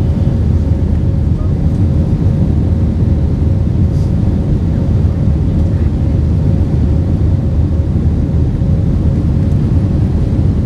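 Airbus A320's IAE V2500 turbofan engines heard from inside the cabin over the wing: a loud, steady low rumble with a faint constant hum tone above it.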